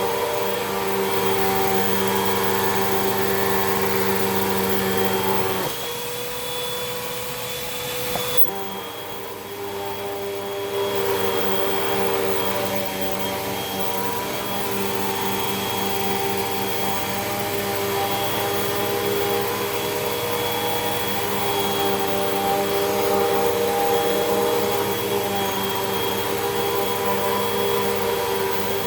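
Hoover WindTunnel 2 Rewind upright vacuum cleaner running steadily, a motor hum with a high whine and hiss. About six seconds in the sound drops and shifts in pitch. A click follows near eight seconds, the hiss thins briefly, and the full running sound is back by about eleven seconds.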